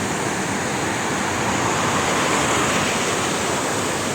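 Steady, even rushing of water from heavy rain and its runoff.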